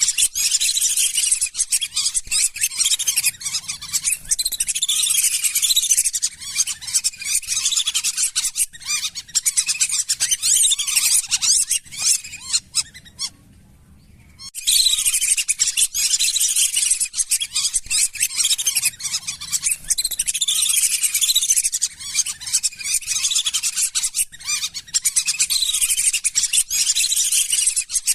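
A flock of lesser whistling ducks giving a dense chorus of high-pitched whistled calls. The calling breaks off for about a second and a half about halfway through, then resumes.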